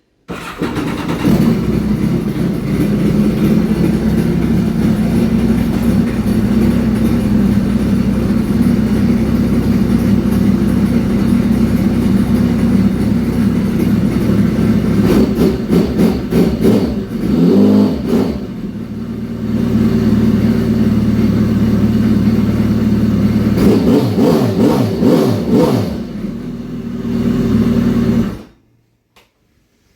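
Honda AquaTrax turbo jet ski's four-cylinder four-stroke engine, with a straight-pipe exhaust, running steadily. The throttle is blipped in short revs about halfway through and again near the end, and then the sound stops abruptly.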